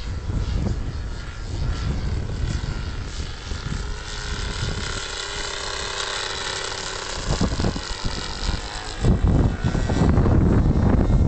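Radio-controlled model aircraft's engine and propeller droning in flight, with heavy wind buffeting the microphone, which gets louder near the end.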